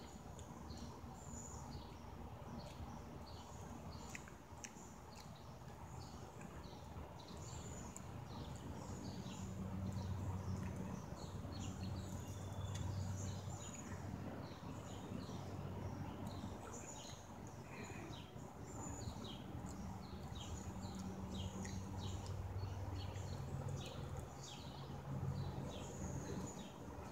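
Birds chirping again and again over steady outdoor background noise, with a low hum that swells twice, around ten seconds in and again near the end.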